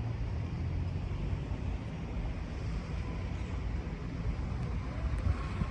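Steady low drone of a ship's engine under an even hiss of wind and water.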